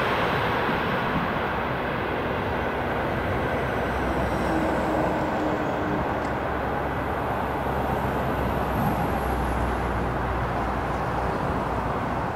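Wheels of a receding mail-baggage train's carriages rolling on the rails: a steady rumble of rolling noise as the train pulls away.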